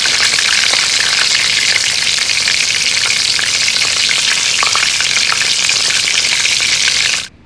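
Egg-and-flour-battered chicken cutlets shallow-frying in hot olive oil: a loud, steady sizzle with scattered crackles, cut off suddenly near the end.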